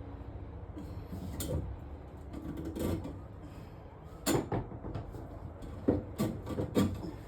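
A drain snake being worked down a clogged kitchen sink drain pipe: the cable rubs and scrapes, with sharp knocks against the pipe. The knocks come a few times, then four in quick succession near the end.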